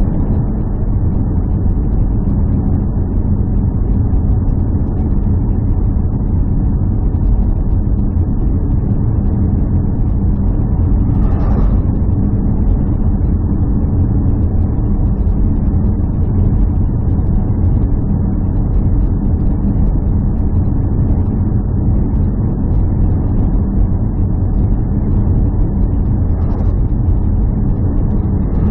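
A steady, loud engine drone with a low rumble, unchanging throughout, with two brief noises about twelve and twenty-six seconds in.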